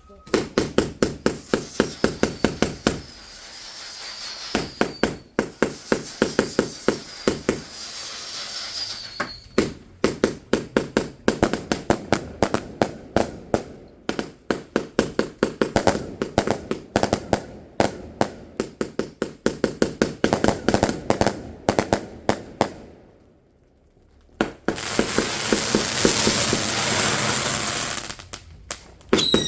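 Fireworks going off in a rapid barrage: long runs of sharp bangs, several a second, with falling whistles twice in the first ten seconds. The bangs stop briefly near the end, then a few seconds of dense hissing crackle follow before the bangs start again.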